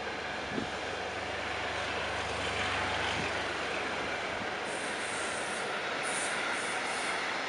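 Container freight train rolling steadily across a railway bridge, its wagons passing in a continuous rumble with a few short knocks, the sharpest about half a second in.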